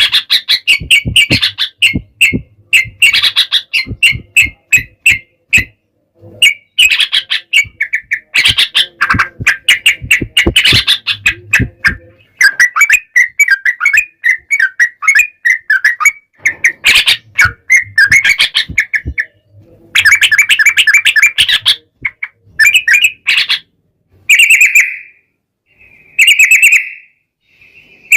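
Yellow-vented bulbul (trucukan) singing a fast, chattering song of rapid repeated notes, delivered in runs of one to several seconds with brief pauses between them. Near the end the phrases become shorter and further apart.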